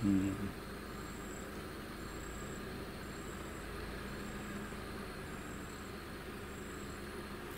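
Steady low rumble of a vehicle engine idling, with insects chirping high-pitched about once a second. A brief low voice sounds at the very start.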